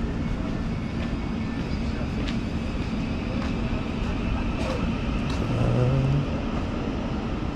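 Steady low rumble of an Elizabeth line train arriving at a station, with a few sharp clicks and faint voices in the background.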